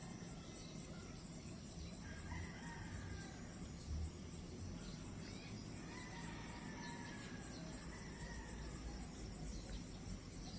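Rooster crowing faintly, two long drawn-out calls that fall in pitch, over a steady high-pitched chorus of insects.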